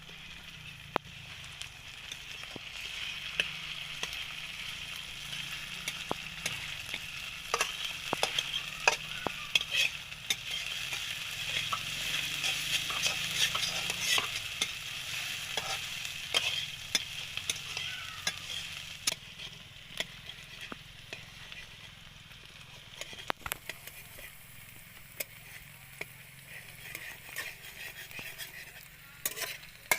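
Chicken curry sizzling as it fries in a pan and is stirred, with a steady hiss and frequent sharp clicks of the spoon against the pan. The sizzle is loudest in the middle and eases off in the later part.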